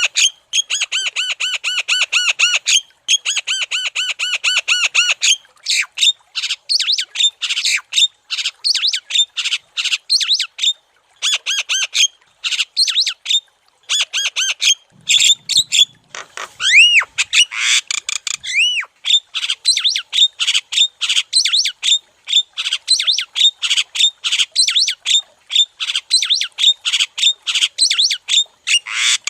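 Javan myna (jalak kebo) singing nonstop: a fast run of evenly repeated harsh notes for the first five seconds, then varied, chattering calls with a few looping whistles partway through.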